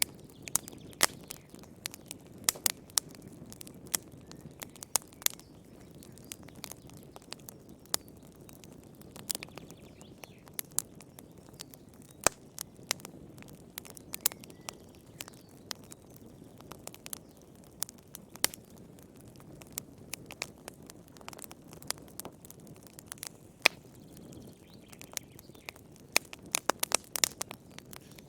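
Wood fire crackling: irregular sharp pops and snaps over a soft low rush of the flames, with a quick run of pops near the end.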